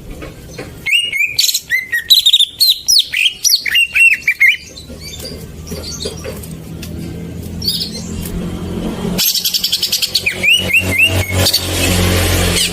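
Green leafbird (cucak ijo) singing: quick runs of chirping, swooping whistles mixed with rapid clicks, one burst about a second in and another near the end, over a steady low hum.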